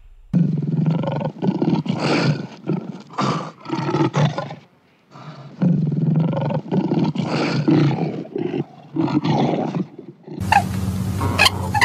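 Lion roaring: a series of short, deep roaring grunts in two bouts with a brief pause between them. Near the end it cuts to a different sound, a steady low hum with repeated short high calls.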